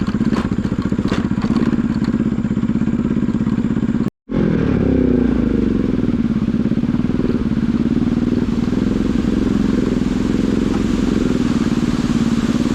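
Bajaj Pulsar NS200 single-cylinder motorcycle engine running steadily while riding, now working again after its failed spark plug was fixed. The sound cuts out briefly about four seconds in. When it returns, the engine note drops and then settles.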